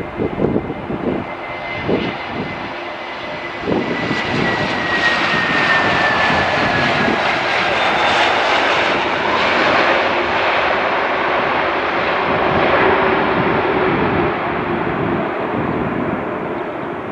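The engines of an airliner passing close by: a loud, steady rush that builds and then eases, with a high whine that falls in pitch as the plane goes past. Irregular low thumps are heard in the first few seconds.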